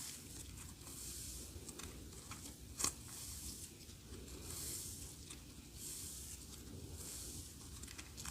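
Clear slime being squished and stretched by hand: soft wet squishing that swells about once a second, with small crackles. A sharp click comes a little under three seconds in.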